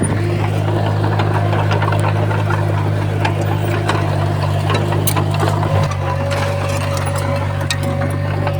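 Komatsu bulldozer's diesel engine running steadily under load, with scattered sharp clicks and clanks. A steady higher whine joins about six seconds in.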